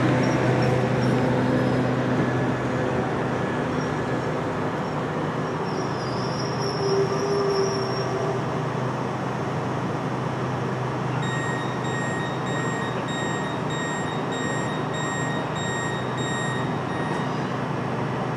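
Electric multiple unit train running with a steady hum and rumble, a brief high squeal about six seconds in. Later a series of electronic beeps sounds at about two a second for roughly six seconds.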